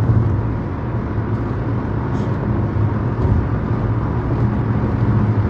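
Steady low drone of a moving car heard from inside the cabin: engine and road noise.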